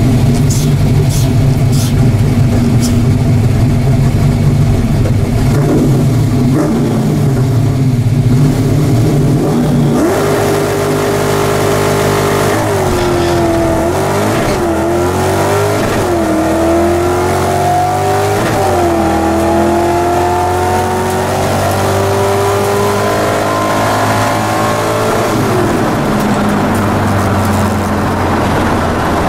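Ford Mustang's V8 (a stock Explorer 5.0 long block with GT40P heads) heard from inside the cabin. It holds steady revs on the start line for about ten seconds, then launches at full throttle: the engine pitch climbs and drops back at each manual gear change, several times. Near the end it falls away as the driver lifts off, and the car coasts.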